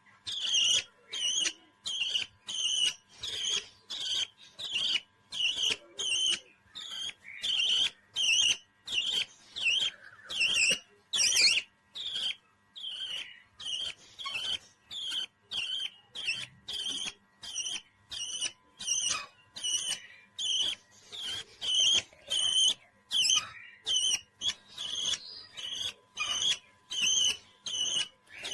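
A parrot giving short high chirping calls over and over, about two a second, in a steady rhythm.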